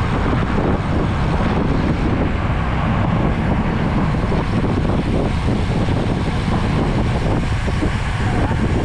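Steady wind rush and low rumble on the microphone of a rider on a moving road bicycle.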